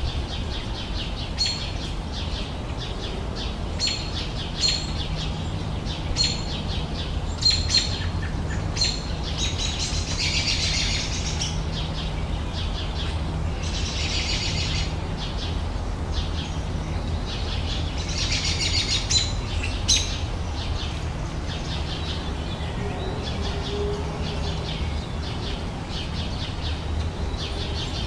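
Small songbirds calling outdoors: short high chirps repeat about once a second, and three times a bird sings a longer trilled phrase lasting about a second and a half. A steady low background rumble runs underneath.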